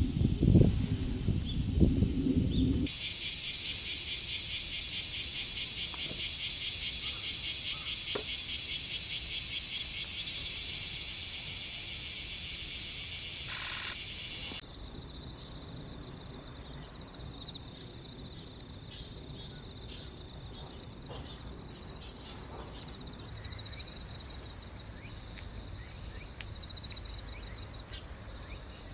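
Insects buzzing and trilling: a loud, high, evenly pulsing buzz for about the first half, then a steadier high trill. For the first three seconds there is low rumbling and knocking.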